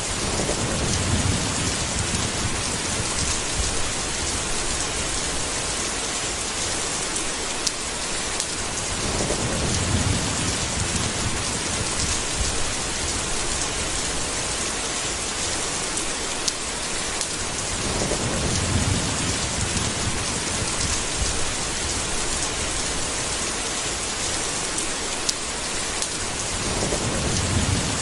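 Steady heavy rain, a dense even hiss, with a deep rumble of thunder swelling about every nine seconds.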